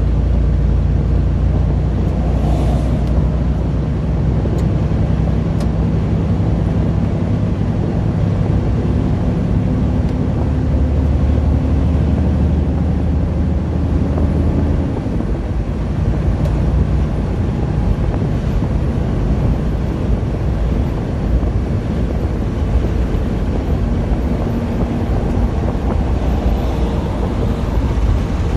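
Semi-truck diesel engine droning steadily under road and wind noise, heard from inside the cab. The engine's low note changes and drops back about halfway through.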